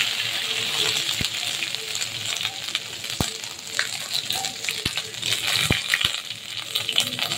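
Crushed ginger and green chilli frying in hot oil with cumin and asafoetida: a steady sizzle full of small crackles, with a few sharp pops.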